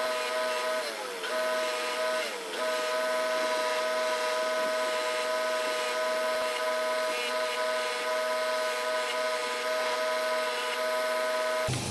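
Motor-driven wire wheel running with a steady whine and a high scratchy hiss, cleaning a hardened steel knife blade. Its pitch sags twice in the first few seconds as the blade is pressed against the wheel.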